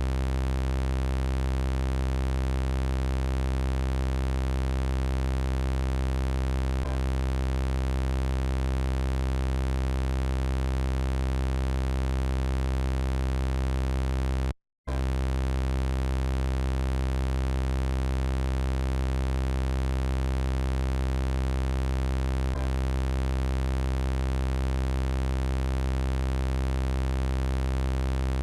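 Synthesized robot-voice drone: a steady electronic buzzing tone with many even overtones that never changes in pitch. It cuts out for a split second about halfway through, then resumes unchanged.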